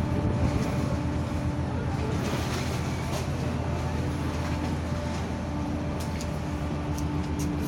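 Express ferry's engines droning steadily with a constant low hum, heard aboard; a few faint clicks near the end.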